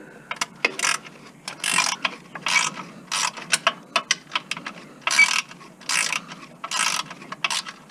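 Hand ratchet wrench clicking in repeated short strokes, about a dozen irregular bursts, as a fastener is worked that keeps turning with it.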